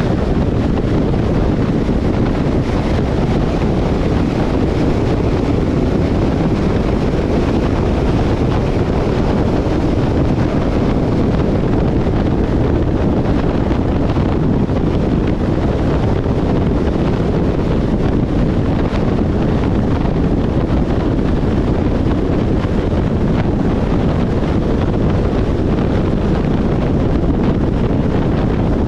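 Wind buffeting the microphone: a steady, loud, low rumble that does not let up.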